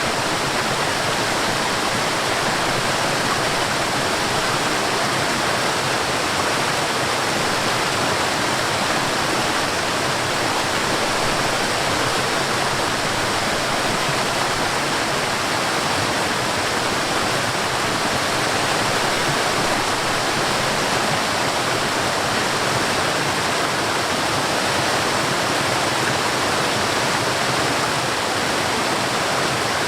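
Forest waterfall: water falling and rushing in a steady, even roar.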